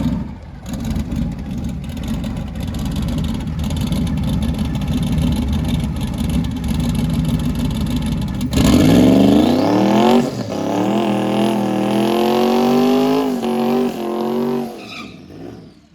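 Drag racer's engine running with a rough, loud rumble on the line, then launching about eight and a half seconds in. Its revs climb and drop back at each gear change, and it fades near the end as it goes away down the strip.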